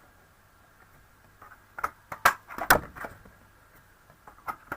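A handheld craft paper punch clicking and clunking as small shapes are punched from cardstock. There is a cluster of sharp clicks and knocks about two to three seconds in, then two more clicks near the end.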